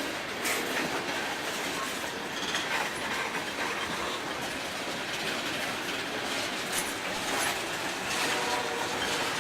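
Freight train rolling slowly past at walking pace, the wheels of its cars clicking over the rail joints.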